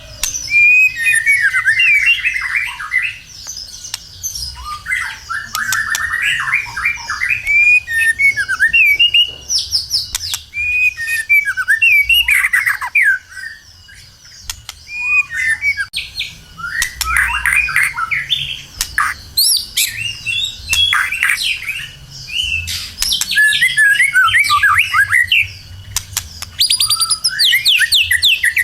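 White-rumped shama singing a long, varied song: rapid whistled and chattering phrases that rise and fall, separated by brief pauses.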